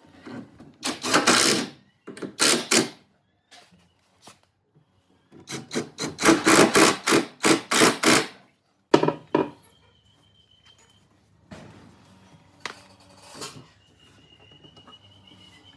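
Hand rubbing or sanding strokes on wood, back and forth in short bursts, with a quick run of about six strokes in the middle and pauses between the groups.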